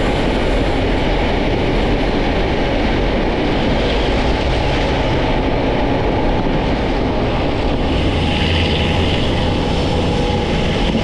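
Heritage passenger train carriage running along the track, heard from its open upper window: a steady rumble and rush of wheels on rail.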